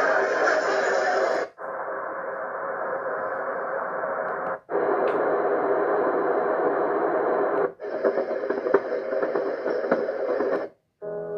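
White-noise sound machine playing its built-in relaxation sounds one after another: a steady hiss that changes character about every three seconds, with a brief drop-out at each switch, the last sound carrying scattered crackles.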